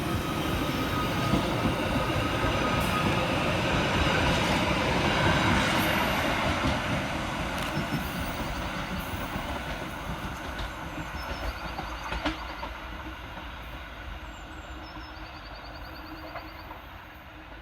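Merseyrail Class 777 electric multiple unit pulling out of the station and running away. Its rumble swells for about five seconds, then fades steadily as it recedes.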